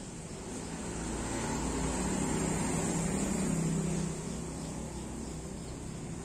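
A car engine running, growing louder about a second in and easing off again about four seconds in.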